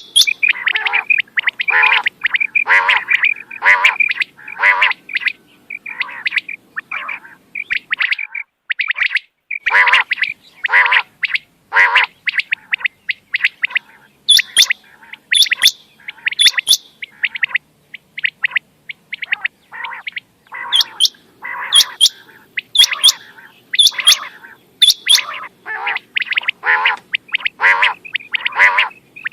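Quail calling over and over in quick runs of short, sharp notes, a hunter's lure recording. There are brief lulls about eight seconds in and again near eighteen seconds.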